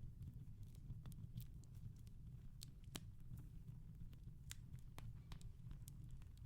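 Wood fire crackling softly in a fireplace: irregular small pops and crackles, a few sharper than the rest, over a low steady rumble.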